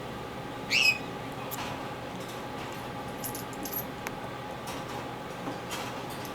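A parrot gives one short, loud squawk about a second in, followed by a few faint clicks and soft high chirps.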